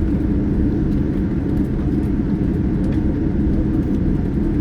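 Steady, loud rumble inside the cabin of a Boeing 787-9 airliner, heard from a window seat behind the wing.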